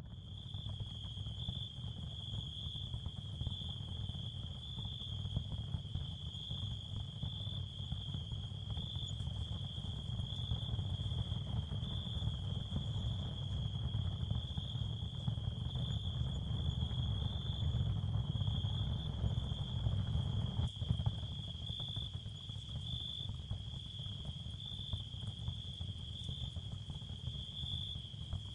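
Ambient nature sound bed: a steady chorus of crickets chirping in a continuous high pulsing trill, over a steady low background noise.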